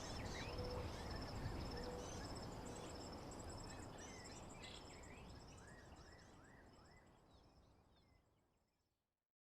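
Recorded nature ambience: birds chirping in short rising and falling calls over a steady, high pulsing insect trill. It fades out to silence near the end.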